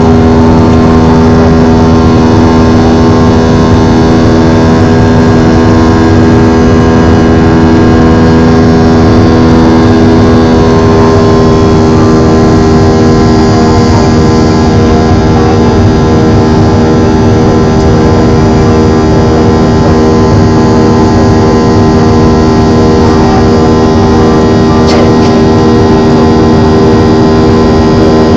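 Jet airliner's engines heard from inside the cabin: loud, steady engine noise with several steady humming tones over it, unchanging throughout.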